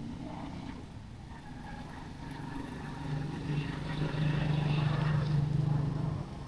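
A motor vehicle engine running close by, growing louder about halfway through as a steady low drone, then cutting off sharply near the end, over a background of street noise.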